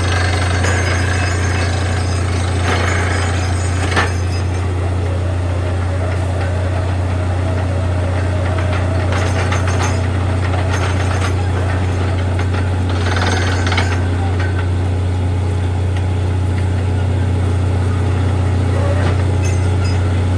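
Borewell drilling rig running steadily, a constant low drone with noisy machine clatter above it and one sharp knock about four seconds in.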